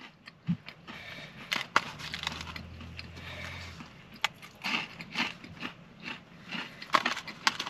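A person chewing and biting a crunchy fried churro: scattered crisp crackles and crunches.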